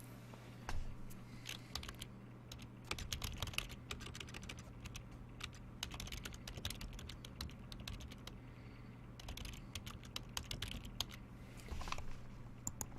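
Typing on a computer keyboard: irregular runs of quick key clicks with short pauses, over a steady low electrical hum.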